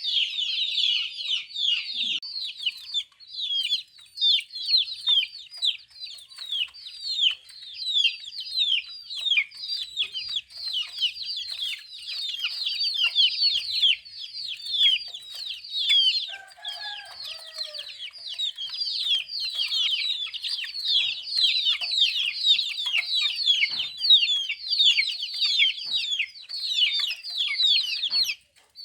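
A flock of young chicks peeping continuously: many short, high, down-slurred peeps overlapping in a dense chorus. A brief lower call cuts in about sixteen seconds in.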